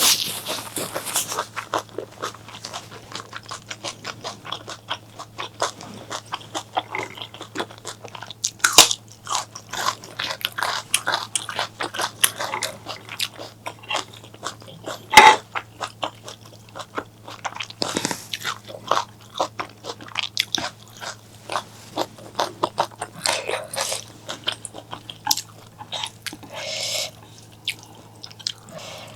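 Close-miked eating: a person chewing and biting food with irregular crunches and wet mouth clicks, the sharpest crunch about halfway through. A faint steady low hum underneath.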